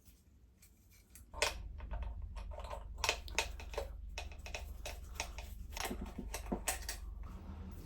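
Irregular clicks and light taps of small hard parts being handled. A low hum starts about a second and a half in.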